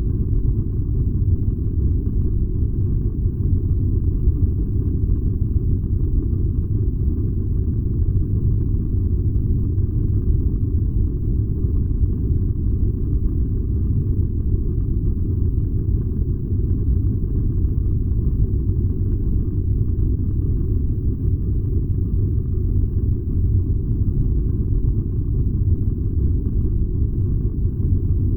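Furnace burning with a steady, low rumble.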